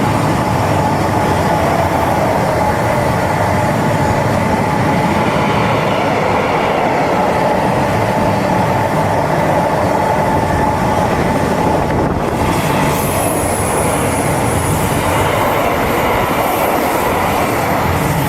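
A train running past on the line, a steady loud rolling noise of wheels on rail with a steady high whine.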